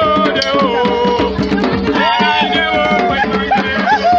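Hand drums beaten in a fast rhythm, with voices singing over them.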